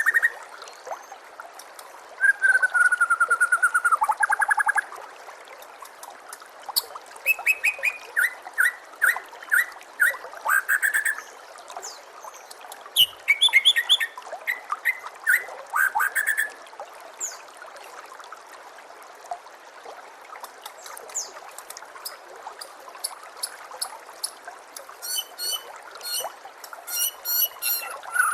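White-rumped shama song: a string of varied phrases with quiet gaps between them, including rapid trills, runs of repeated whistled notes and clusters of fast high chips near the end. The song plays over a steady hiss of trickling water.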